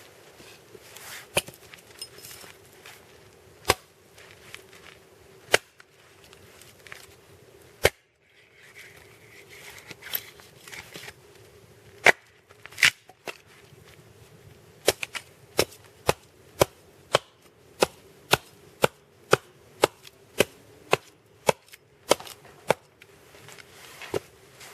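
Axe striking a pine log: a few scattered blows, then a steady run of about two blows a second in the second half.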